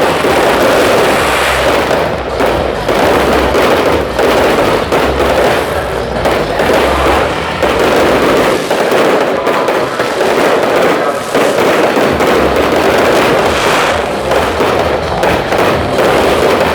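Fireworks display: a dense, unbroken run of bangs and crackling as many shells burst in quick succession.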